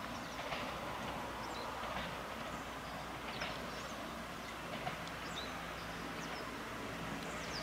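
N700A Shinkansen train pulling slowly out of the station: a faint, steady running noise with a few light clicks as the wheels cross the points.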